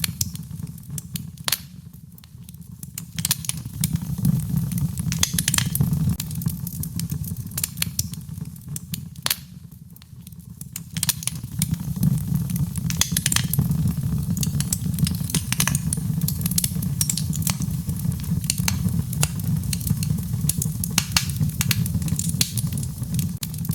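Fireplace fire crackling, with a steady low rumble and many sharp, irregular pops. It quietens briefly twice.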